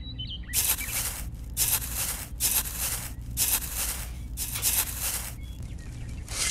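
Miniature metal shovel scraping and scooping loose soil and sand on a board, about six gritty strokes roughly one a second.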